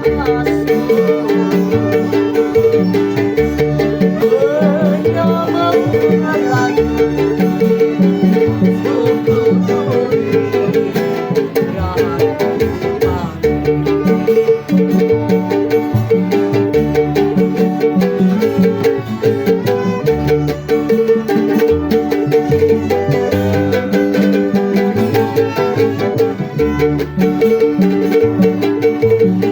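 Instrumental passage of a Balinese pop song played by a band, with a melody over a steady, repeating bass line and no singing.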